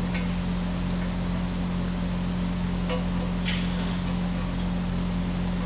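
A steady low mechanical hum with a few light metallic clinks, as bolts and parts are handled, and a brief rattle about three and a half seconds in.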